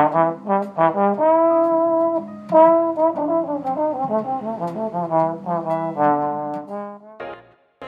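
Brass instrumental music: a tune on trombone and trumpet, mixing quick short notes with a few held ones, dropping away near the end.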